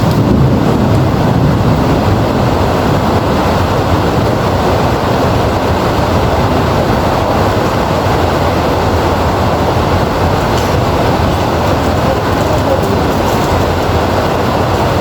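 Heavy rain falling in a steady hiss, with a low rumble of thunder in the first couple of seconds.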